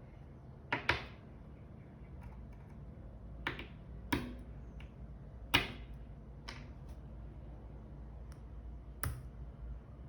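Sharp, irregular clicks and snaps of small hard parts being handled, as a tool and spring bar work at a G-Shock watch band: two close together about a second in, then single clicks every second or two.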